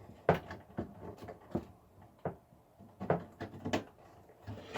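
A string of sharp plastic clicks and knocks from power supply cable connectors being handled and pushed into a PC motherboard, some half a dozen in a few seconds.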